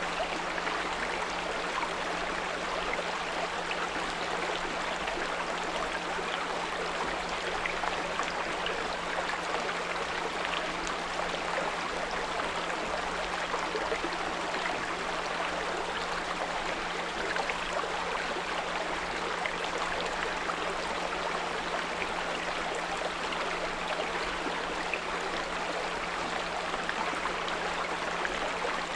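A small brook running steadily, with a constant 174 Hz pure tone held underneath it.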